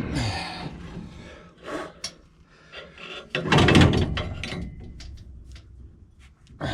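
Parts being handled and worked, with scattered knocks and scraping. The loudest is a rough rub or scrape lasting about a second, about three and a half seconds in.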